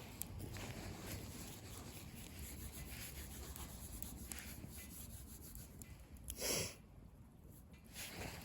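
Small outdoor bonfire burning, with soft rustling and a few faint crackles, and one louder short rustle or whoosh about six and a half seconds in.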